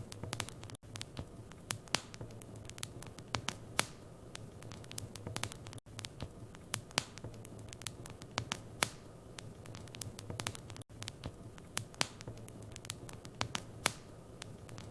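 Wood fire crackling in a fireplace: irregular sharp pops and snaps over a steady low hum, with a brief dropout about every five seconds.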